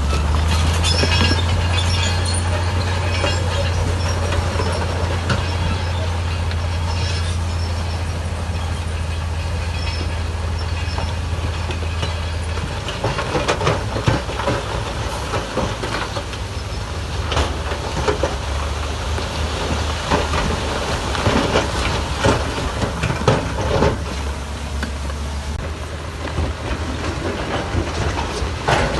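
Heavy diesel earthmoving machinery at work. For the first dozen seconds a steady low engine drone dominates. After that the drone breaks up into a rumble with repeated knocks and clanks.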